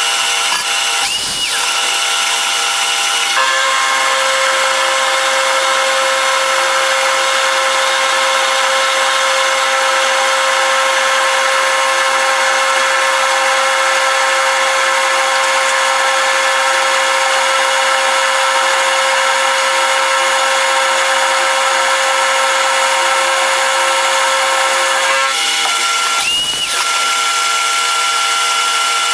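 Power tool machining steel, running steadily with a continuous whine of several held tones. The pitch of the whine shifts about three seconds in and again near the end, with brief dips in the sound around a second in and just before the end.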